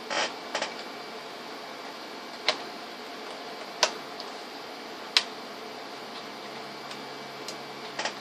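Scattered sharp clicks and taps, about half a dozen, irregularly spaced, over a steady background hiss.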